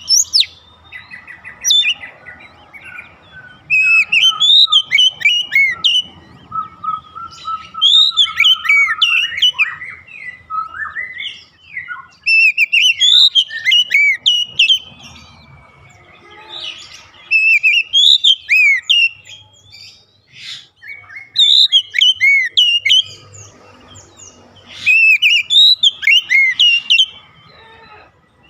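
Oriental magpie-robin singing: loud phrases of quick, varied whistled notes sweeping up and down, each about two seconds long and repeated every few seconds with short pauses between, with a fast run of repeated lower notes in one phrase.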